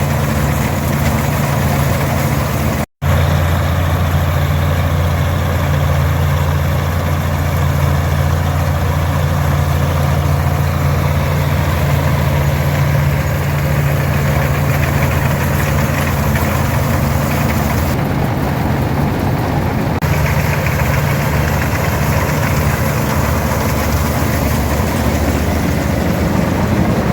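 Farmall 460 tractor's 282 diesel engine running steadily under load, driving an International 82 pull-type combine as it harvests oats, with the combine's threshing noise. The sound cuts out completely for an instant about three seconds in.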